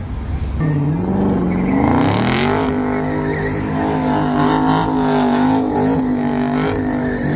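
A muscle car's V8 engine revving up about half a second in, climbing for about two seconds, then held at steady high revs as the car does a slide.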